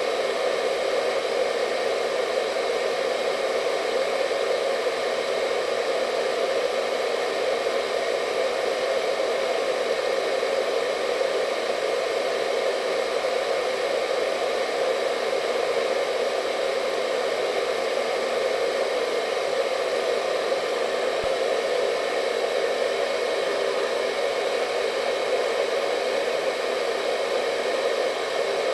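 Hair dryer running continuously: a steady fan-and-airflow whoosh with a faint whine over it, never changing in level or pitch.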